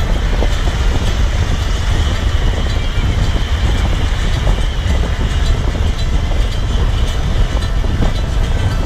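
Wind rushing over a GoPro's microphone while riding: a steady, loud low rumble with small rattles and clicks through it.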